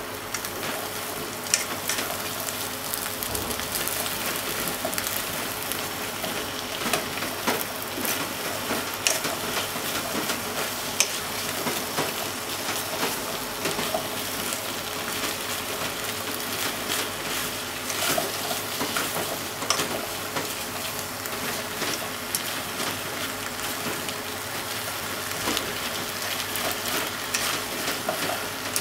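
Sliced onions, potatoes and bacon sizzling as they fry in a pot, with a steady hiss. They are stirred and turned with wooden chopsticks, giving scattered light clicks throughout.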